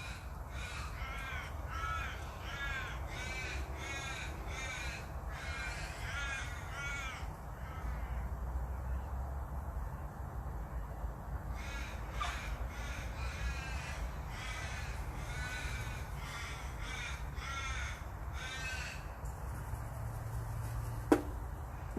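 A bird calling over and over, short arched notes about two a second, in two runs with a pause of a few seconds midway.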